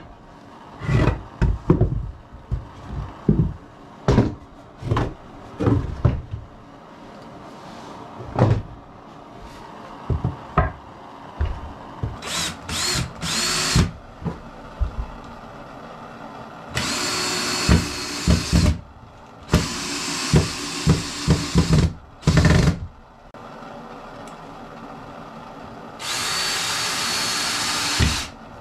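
A series of sharp knocks of wood being set and tapped into place, then a power drill driving screws into the wooden frame in several bursts of a few seconds each.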